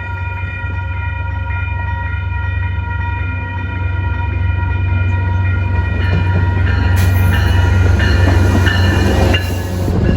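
A train passing close by: deep diesel locomotive rumble under a steady chord-like tone, growing louder, with rail and wheel noise building from about seven seconds in.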